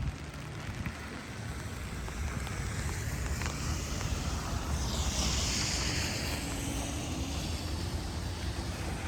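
Wind blowing against the microphone with a steady low rumble; a hissing gust swells about five seconds in and dies away.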